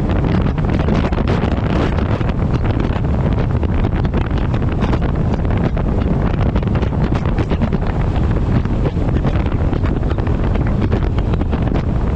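Heavy wind buffeting a camera microphone mounted on the front of a moving truck: a loud, steady rumbling roar with constant rapid flutter.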